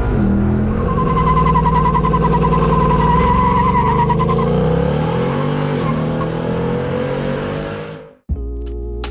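Car engine running and revving, its pitch rising and falling. About eight seconds in it cuts off abruptly and a steady musical hum follows.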